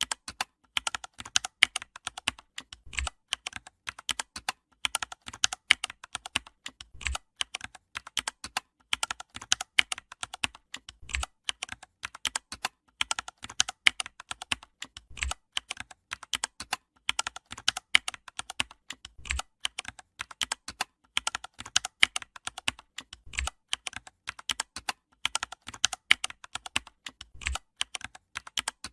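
Rapid keyboard typing clicks, steady throughout, with a heavier keystroke about every four seconds as the pattern repeats.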